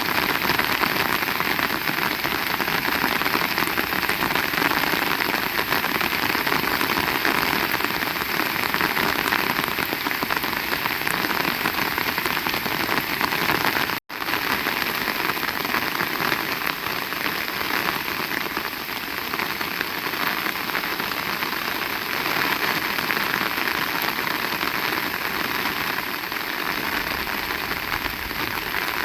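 Heavy rain falling steadily, a dense even hiss of drops. It cuts out for an instant about halfway through and resumes at once.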